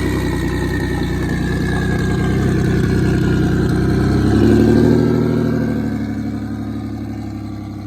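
Single-turbo Infiniti Q50's engine running under way, getting louder and higher to a peak about five seconds in, then easing off, on a freshly loaded base tune.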